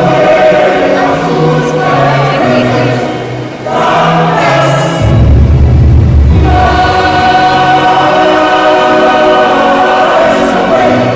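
A choir singing sustained chords in parts, with a short break about three and a half seconds in. A low rumble sounds under the singing for about a second and a half midway.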